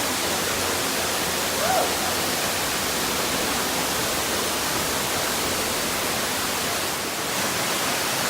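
Waterfall rushing steadily, a continuous even hiss of falling water.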